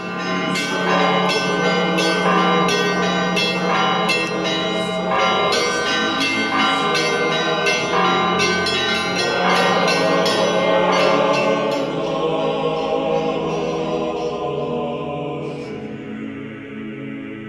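Church bells ringing in a quick, busy peal, many strikes overlapping over a steady low hum; the strikes stop about fifteen seconds in and the ringing fades away.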